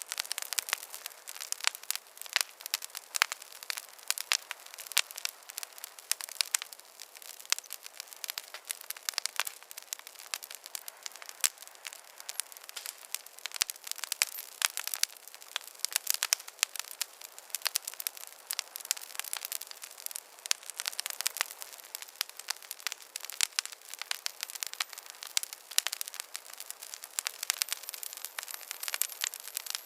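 Wood fire in a fireplace crackling, with many irregular sharp pops and snaps over a faint hiss.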